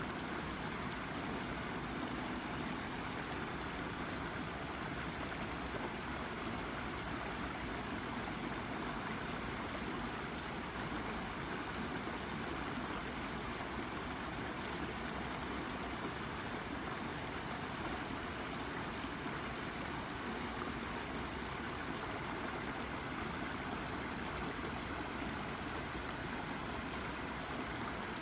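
Shallow brook babbling and gurgling over and around a rock, a steady, unbroken rush of running water.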